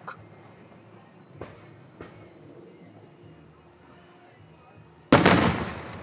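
Crickets chirring in a steady high trill, with a few faint distant pops. About five seconds in, a loud firework shell bursts, sharp and sudden, and dies away over a second.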